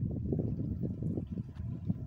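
Passing train: a steady low rumble of wheels on the rails with many short, irregular knocks.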